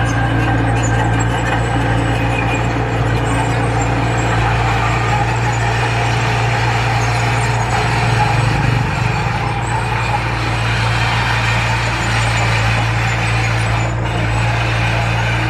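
Heavy diesel engine of a construction machine running steadily, a constant low drone with only a slight swell about eight seconds in.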